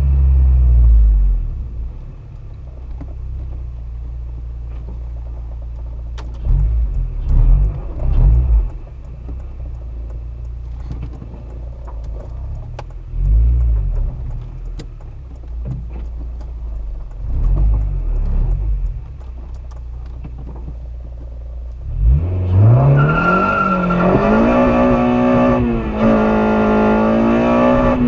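K24A2-swapped Honda Civic Si's 2.4-litre four-cylinder engine under way: a low steady rumble with a few short surges for most of the time, then late on the engine revs up hard, its pitch climbing and holding high for several seconds before falling near the end.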